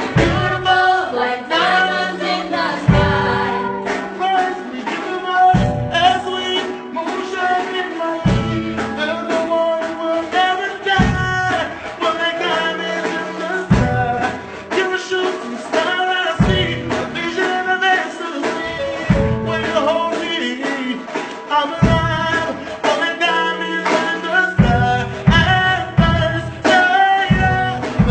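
A voice singing a melody over an instrumental backing track, with bass notes changing every couple of seconds.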